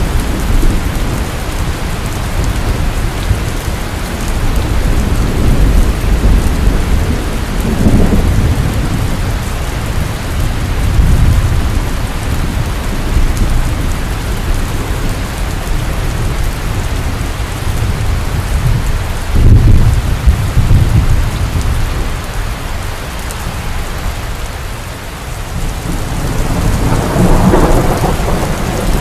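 Heavy rain pouring steadily, with thunder rumbling low in several swells; the loudest rumble comes about two-thirds of the way through.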